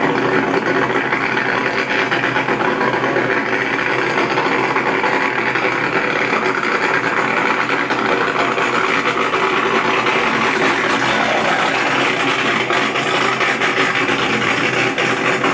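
Drag-racing car engine running steadily and loudly, with no change in pitch or level.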